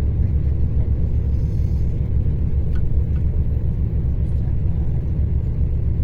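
Mercedes-Benz O-500RSD coach's diesel engine running with a steady low rumble.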